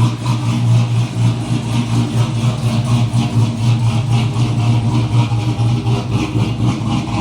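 A vehicle engine running steadily with a deep, even drone and no big changes in pitch.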